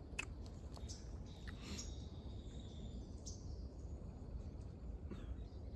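Quiet outdoor ambience: a low steady rumble with a few faint ticks and a faint bird chirp about two seconds in.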